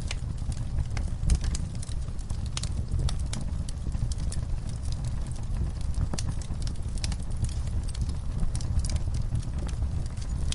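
Fire burning in a fireplace, crackling and popping: irregular sharp crackles, several a second, over a steady low rumble of the flames.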